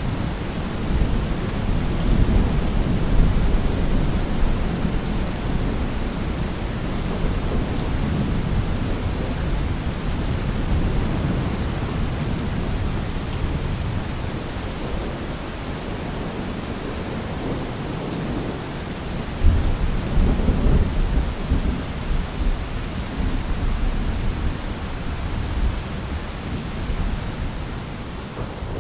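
Thunderstorm: steady heavy rain with rolling thunder rumbling underneath. About two-thirds of the way through, a louder thunder rumble starts suddenly and rolls away.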